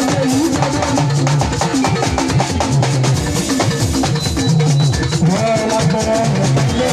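Gospel band music with a drum kit and shakers keeping a steady beat over a moving bass line.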